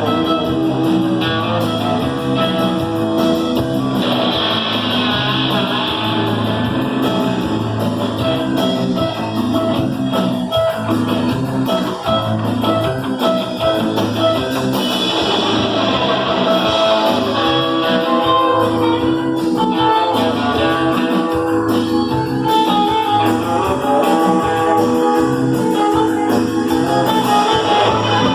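A rock band playing live, with guitar to the fore over a steady repeating bass line and beat.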